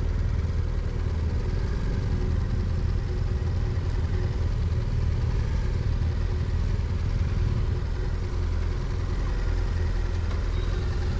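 Motorcycle engine running steadily with a deep, even drone.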